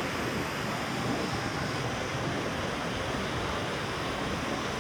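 Steady, even rush of sea surf.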